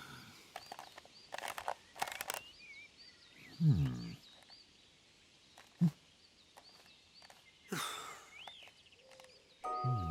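Cartoon birdsong: many short, high chirps repeated throughout. Between them come a few sharp clicks and brief, falling, wordless voice sounds.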